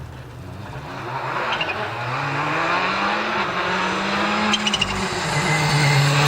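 Rally car engine accelerating as it approaches, getting louder, its pitch rising for about three seconds, dipping briefly near five seconds in, then pulling again, with a few sharp crackles.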